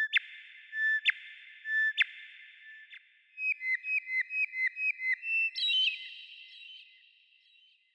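A songbird singing clear whistled notes: three single notes about a second apart, then a quick run of about ten notes at roughly four a second that ends in a higher flourish, each note echoing briefly.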